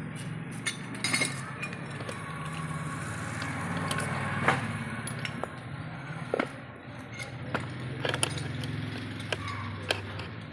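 Scattered light clinks and taps of small hard objects, irregular and a dozen or so in all, over a steady low hum; the sharpest tap falls about four and a half seconds in.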